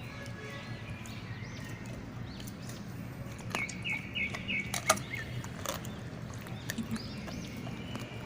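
Small birds chirping, with a quick run of chirps and a few sharp clicks about halfway through, over a steady low hum.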